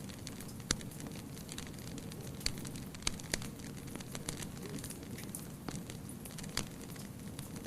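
Wood fire burning, with a steady low hiss and irregular sharp crackles and pops from the burning wood.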